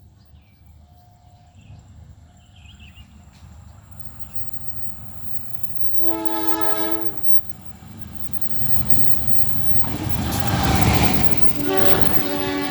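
Diesel locomotive approaching and passing, its engine and wheel rumble growing steadily louder and peaking about two-thirds of the way through. Its multi-chime air horn sounds one short blast about halfway, then starts again near the end.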